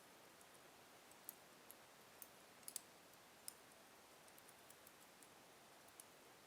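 Wood fire in a fireplace crackling softly: irregular sharp pops and clicks from the burning logs over a faint steady hiss, a cluster of louder pops just under three seconds in.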